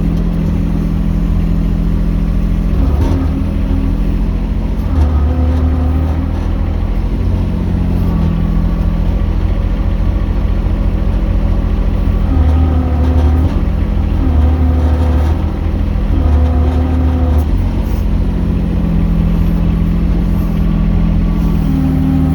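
Mini excavator engine running continuously, its note dipping and shifting every second or two as the hydraulics are worked.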